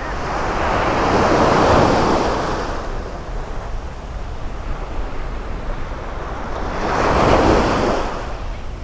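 Sea waves washing in at the shore, two surges of rushing surf about five seconds apart, with wind rumbling on the microphone throughout.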